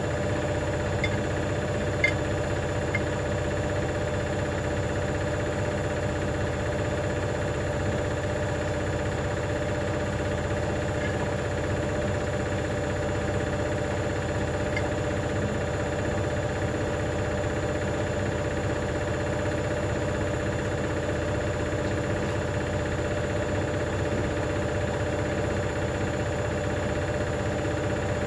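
Hoover DynamicNext washing machine running on its spin at a steady speed: a steady motor hum with several constant tones. There are a few small ticks about one to three seconds in.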